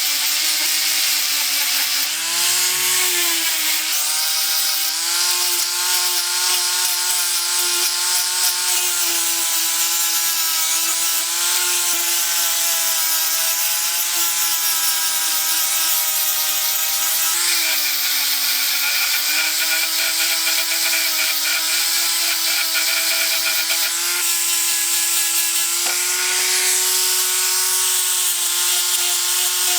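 An electric power tool motor runs at a steady pitch under a dense hiss of abrasion. The pitch sags briefly a few times, about two seconds in, around the middle and again near the end.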